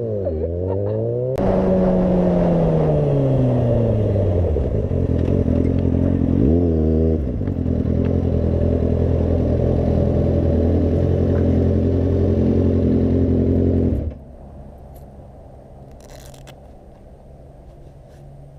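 Motorcycle engine with its revs falling over a few seconds as it slows, one quick rev blip about six and a half seconds in, then running steadily. About fourteen seconds in the engine sound stops abruptly, leaving a faint background with a few light clicks.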